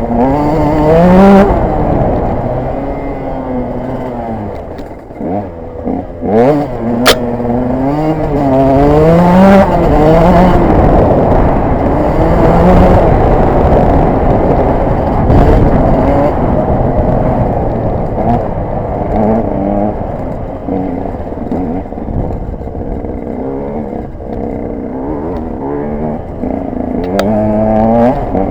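KTM 125 EXC's two-stroke single-cylinder engine being ridden off-road, revving up and down again and again with the throttle and gear changes. It drops back briefly around five seconds in, and a few sharp knocks come around six to seven seconds in.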